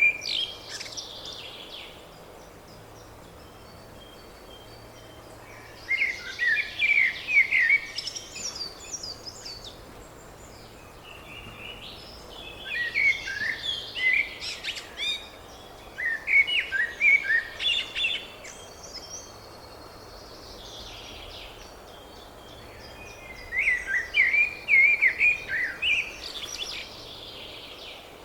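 A songbird singing: short, quick trilled song phrases about two to three seconds long, repeated about five times with pauses of a few seconds between them.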